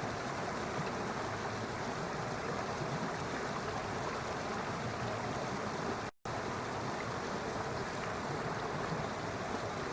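Steady rushing of flowing stream water, cutting out for a split second about six seconds in.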